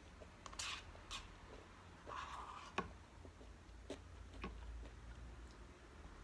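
Close-miked eating sounds: scattered soft mouth clicks and chewing noises, with a few brief rustles and a sharper click about three seconds in.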